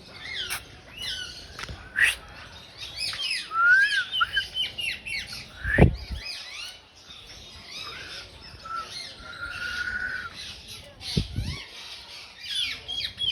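A flock of small birds chirping and squawking over one another in a dense, continuous chatter. Two low thumps break in, about six seconds in and again near eleven seconds; the first is the loudest sound.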